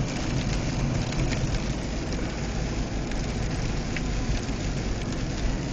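Hail striking a moving car with a few faint ticks, heard from inside the car over steady road and engine noise at about 25 mph.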